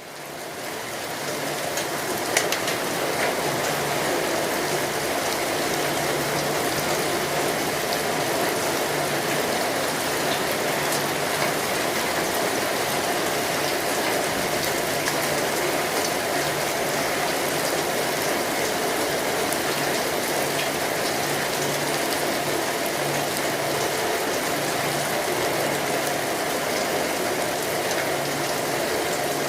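Steady rain falling, an even hiss with scattered drop ticks, fading in over the first couple of seconds.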